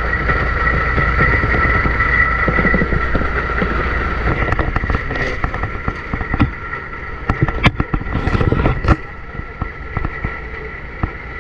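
Truck engine running steadily with a low rumble and a steady high whine. Scattered sharp knocks are heard throughout, bunched together about two-thirds of the way through.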